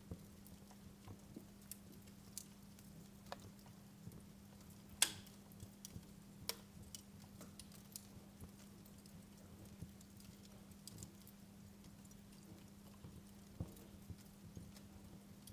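Wood fire in a fireplace crackling, with scattered pops and snaps, the loudest about five seconds in, over a low steady hum.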